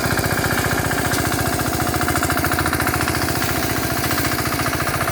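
The power tiller's 5 hp air-cooled engine running steadily, with a fast, even chugging beat.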